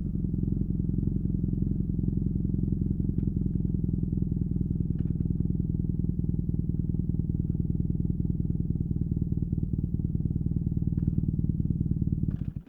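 BMW R nineT's boxer twin with a Competition Werkes slip-on exhaust idling steadily, a low, even pulsing note. It cuts off suddenly near the end.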